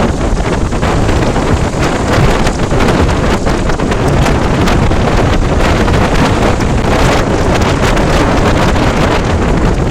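Wind buffeting the microphone of a motorcycle riding at speed: a loud, steady rush that continues throughout.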